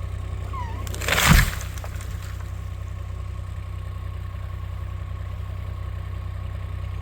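An engine idling steadily with a low hum. About a second in, a brief loud rushing noise rises over it and fades within half a second.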